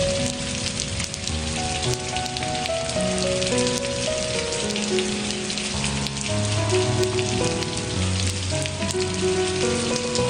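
Steady rain with many distinct drops, mixed with slow, soft music of long held notes that change every second or so.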